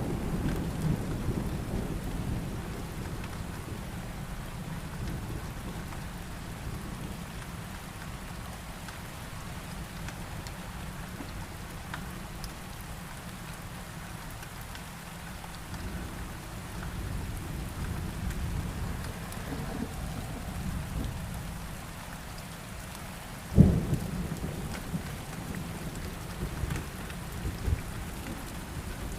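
Steady heavy rain with thunder rumbling low underneath, swelling and fading. About twenty-four seconds in comes a sudden sharp thunderclap, the loudest moment, followed by lighter rumbles.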